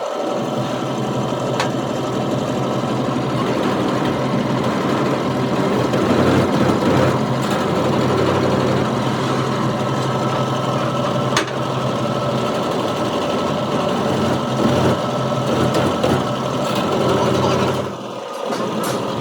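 Steady running of metal-fabrication shop machinery with a low hum, broken by a few sharp clicks, dropping out briefly near the end.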